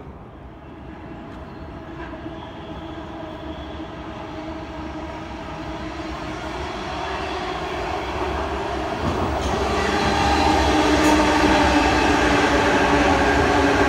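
Sydney Trains double-deck electric train approaching along the viaduct, its running noise growing steadily louder until it passes close by about ten seconds in, with a steady hum and wheels on the rails.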